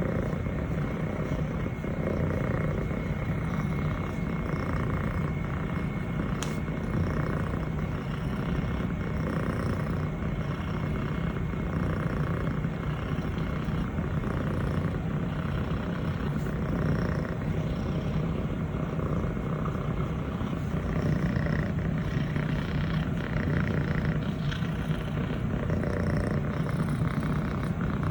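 Scottish Fold kitten purring steadily while being petted, a continuous low rumble close to the microphone.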